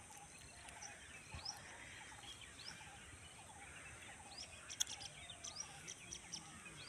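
Faint birdsong: many small birds chirping and twittering over a steady high hiss, with a few sharp ticks about five seconds in.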